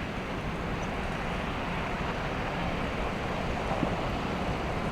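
Steady rush of wind and traffic noise on a snowy, slushy street, with no sharp sounds.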